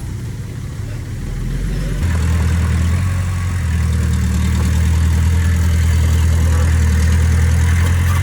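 Diesel engine of heavy earthmoving machinery running steadily, with a low, even tone. About two seconds in it gets louder and stays there, as the machine takes on more load or more throttle.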